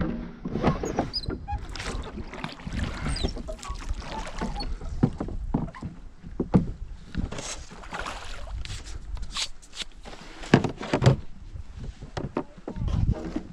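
A small fishing boat on a river: irregular splashing and knocks against the hull, with gear being handled.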